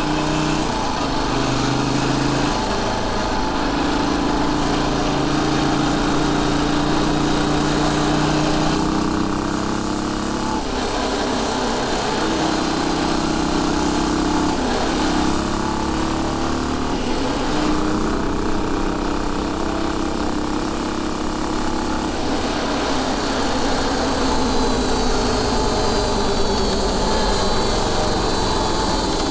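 Royal Enfield Bullet 500's single-cylinder four-stroke engine running as the motorcycle is ridden, its pitch changing several times as speed and gears change, notably about ten and twenty-two seconds in.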